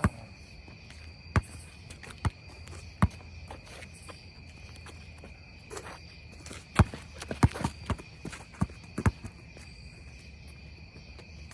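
A basketball bouncing on an outdoor court: single thuds every second or so, then a quicker run of bounces about seven to nine seconds in. Crickets chirp steadily in the background.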